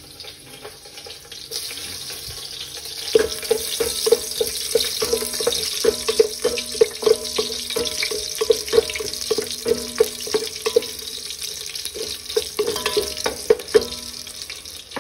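Sliced ginger and garlic sizzling in hot oil in a pot, with a wooden spoon stirring and knocking against the pot about twice a second from a few seconds in.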